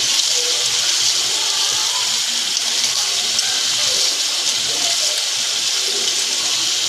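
Steady sizzling of an oily tomato-and-yogurt masala cooking in a pot on the stove.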